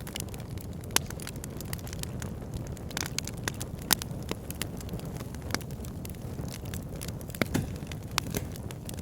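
Wood fire burning in a log burner: a steady low rumble of flames with frequent irregular crackles and pops. The sharpest pops come about a second in, near four seconds and about seven and a half seconds in.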